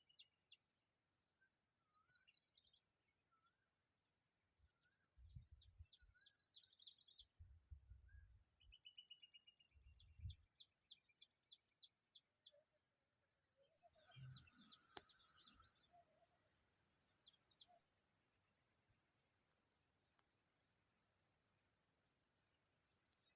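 Faint outdoor ambience: a steady high insect drone with scattered small-bird chirps and quick twittering notes, and a few low thumps in the first half.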